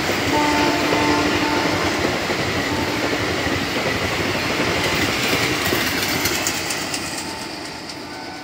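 Train horn sounding a steady two-tone blast for about the first second, over the rumble and wheel clatter of a long passenger train's coaches running past on the rails. The rumble fades over the last couple of seconds as the train draws away.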